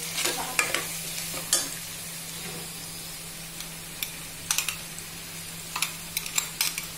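Onions frying in hot oil in a pot, sizzling steadily, with ginger garlic paste just added, while a spoon stirs and scrapes and taps against the pot in scattered clusters.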